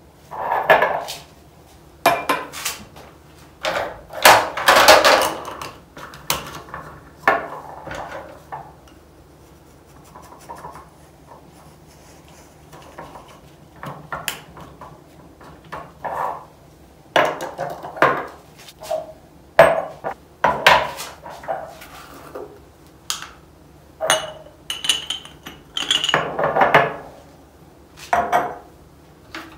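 Jars and kitchen containers being handled and set down: irregular clinks and knocks, some ringing briefly, with quiet gaps between.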